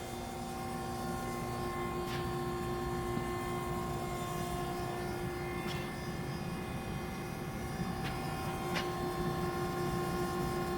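Hyd-Mech V-20 vertical band saw running, a steady machine hum with several constant tones, broken by a few brief high squeaks.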